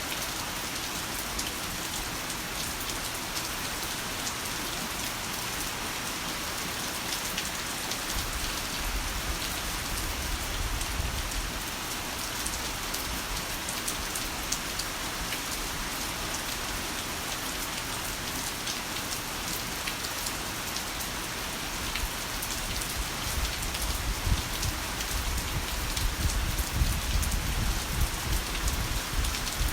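Heavy rain falling steadily as an even hiss. A low rumble of thunder rolls in about eight seconds in, and a longer, louder one builds through the last third.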